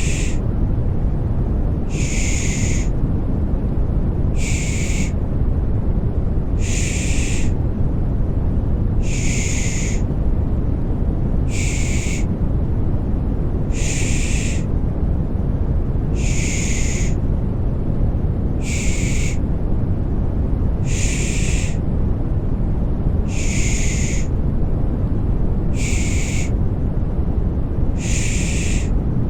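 Rhythmic 'shh' shushing, one short hiss about every two and a half seconds, over a steady deep rumbling white noise: a baby-soothing 'pış pış' sleep sound.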